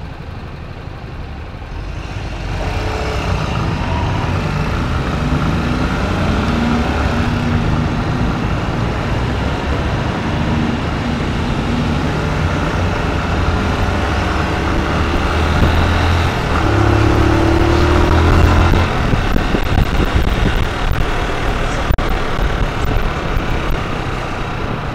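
Honda Titan motorcycle's single-cylinder four-stroke engine pulling away and running along, heard from the pillion seat with wind rushing over the microphone. The noise picks up about two seconds in, and the engine note climbs in steps as it goes up through the gears.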